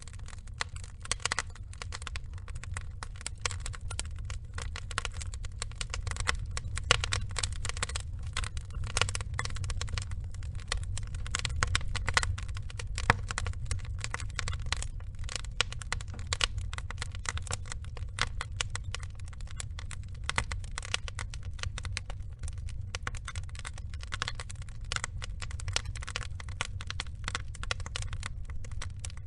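Wood logs burning: dense, irregular crackling over a steady low rumble.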